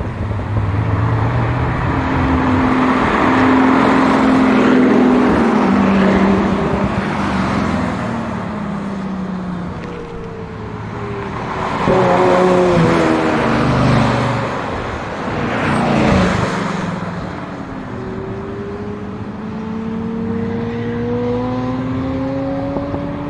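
Loud car engines driving past several times, loudest about three to six seconds in and again around twelve and sixteen seconds, their pitch falling as each one passes. Near the end an engine's pitch climbs steadily as it accelerates.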